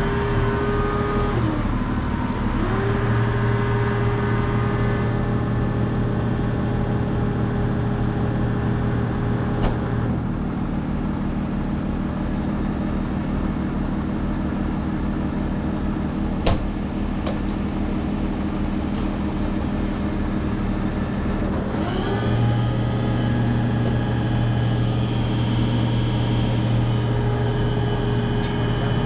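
Heavy diesel truck engine running at a raised, high-idle speed, which typically drives a rotator wrecker's hydraulics. It revs up near the start, drops back to a lower speed about ten seconds in, and revs up again a little after twenty seconds. A single sharp click comes midway.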